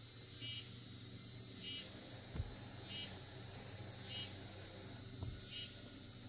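Insects calling: a short chirp repeating about every second and a quarter over a steady high buzz. Two dull knocks come about two and a half and five seconds in.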